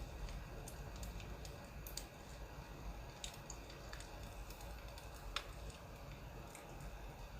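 Burning firewood crackling, with irregular sharp pops and snaps, one louder snap about five seconds in, over a low steady rumble.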